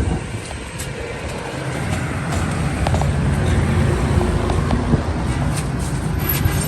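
Steady low rumble of a motor vehicle, with scattered light clicks and taps.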